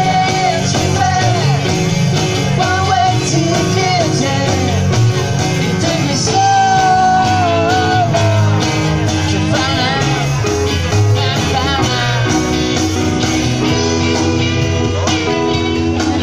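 Live band playing rock-and-roll music, with a sung melody over guitar, bass and drums.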